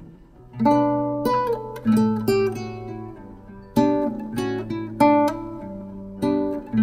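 Background music: acoustic guitar strummed and picked, with a chord struck roughly every second after a brief quiet dip near the start.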